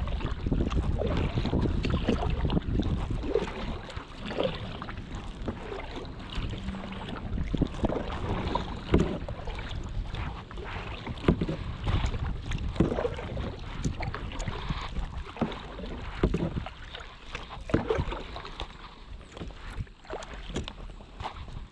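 Kayak paddles dipping and splashing in river water in irregular strokes, over wind rumbling on the microphone that is heaviest in the first few seconds.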